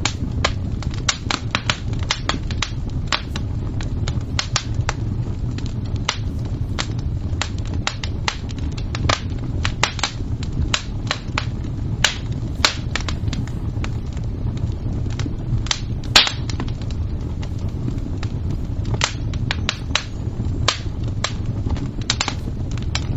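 Fire crackling: irregular sharp pops and snaps over a steady low rumble, with one louder pop about two-thirds of the way through.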